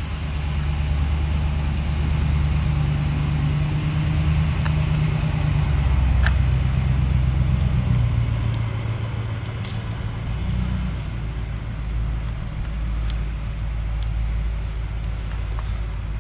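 A vehicle engine running, its low hum shifting in pitch several times, with a few light clicks.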